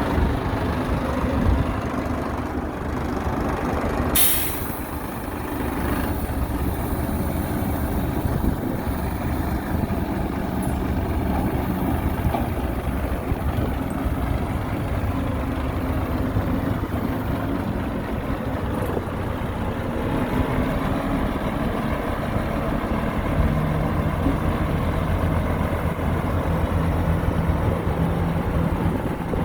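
Diesel engines of heavy earthmoving machinery (dump truck and bulldozer) running, with a brief sharp hiss of air about four seconds in, like a truck's air brake. A steadier engine note comes in near the end.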